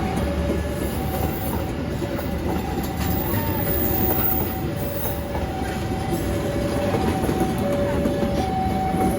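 Train passing close by with a steady rumble and clatter of wheels on the rails, and short high squeals coming and going.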